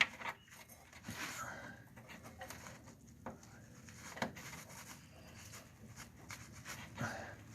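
Faint, scattered clicks and light knocks of parts and hand tools being handled, with a sharper knock about four seconds in.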